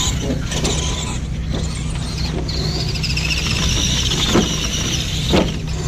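Radio-controlled monster trucks running, their electric motors giving a wavering high whine for a couple of seconds in the middle, over a steady low hum. Two short knocks come near the end.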